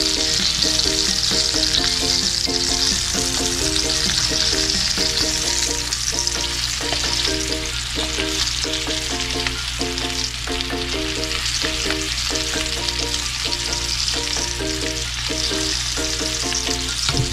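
Chicken wings shallow-frying in hot oil in a pan: a steady sizzle and bubbling, a little louder in the first few seconds, as tongs turn the pieces. A simple repeating melody of background music runs underneath.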